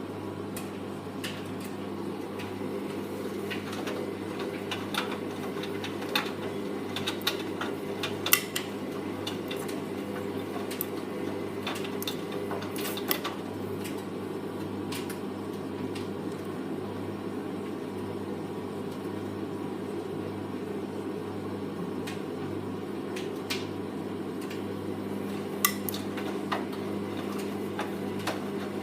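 Hoover Vision Tech VT 914 D22X washing machine running a mixed 40°C wash: the drum turns the load with a steady motor hum and churning, and scattered light clicks and clinks.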